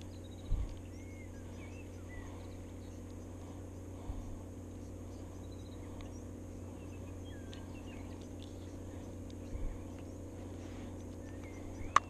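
Scattered small-bird chirps and whistles over a steady low background hum, with a few dull bumps from a plastic fly box being handled, the loudest about half a second in.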